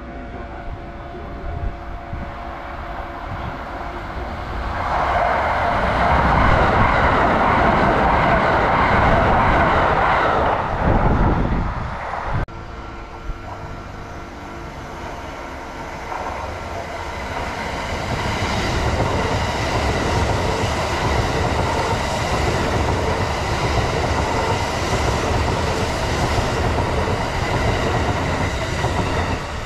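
Two Kintetsu trains passing through a station. The first rushes past loudly in the first half, then cuts off abruptly. After that, a red Kintetsu limited express approaches and runs past close by, its steady rail noise building over the last ten seconds.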